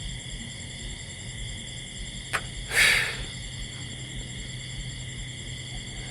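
A steady chorus of insects, several high buzzing tones held on without a break. A sharp click comes a little over two seconds in, and a short louder rasp follows just before three seconds.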